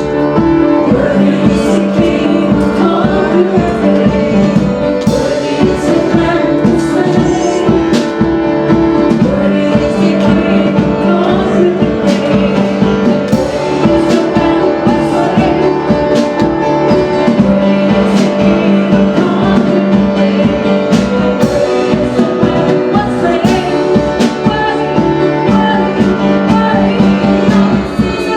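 A worship band playing a song with singing over held keyboard-like notes, and a steady drum beat.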